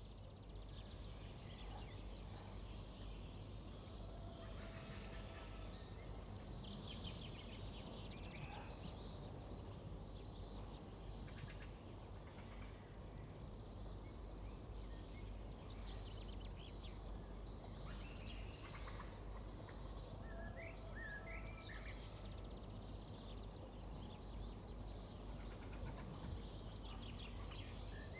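Faint birdsong: a high, thin whistled note repeating about every five seconds, with other chirps and trills between, over a steady low hum.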